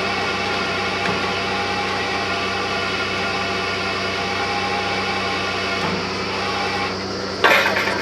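Motor of a bore well drilling machine running steadily, with a brief loud rush of noise near the end.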